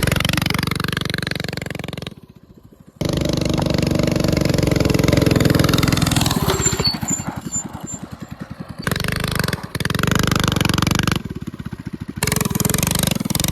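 Coleman mini bike's small engine running and revving, rising in pitch early on, then putting along more slowly, with several abrupt cuts between takes.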